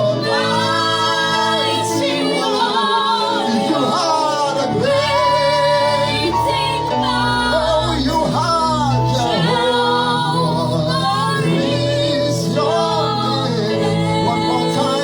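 Gospel worship music: voices singing a flowing melody over sustained keyboard chords and a bass line.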